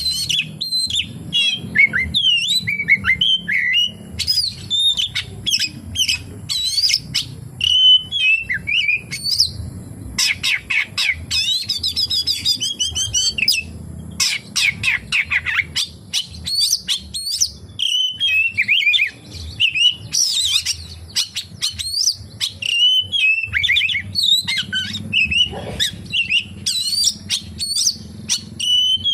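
Oriental magpie-robin singing a loud, unbroken, varied song of whistled phrases, quick up-and-down glides and fast trills, with phrases mimicked from other birds.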